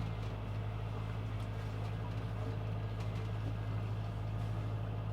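A sailboat's engine running steadily with an even low hum.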